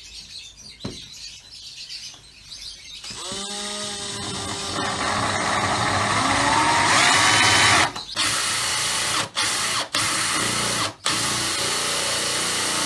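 Electric drill with a diamond bit boring into a glass jar. The motor starts about three seconds in with a rising whine, runs steadily and grows louder, then cuts out briefly several times as it stops and restarts.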